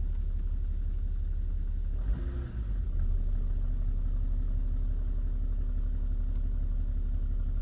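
BMW E65 7 Series engine idling steadily just after being started, heard from inside the cabin as a low, even rumble, with a brief change in the sound about two seconds in.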